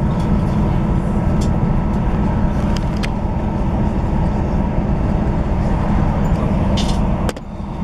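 Cabin running noise of a Class 158 diesel multiple unit at speed: a steady low rumble from the underfloor diesel engine and the wheels on the rails, with a few light clicks. The rumble drops suddenly about seven seconds in.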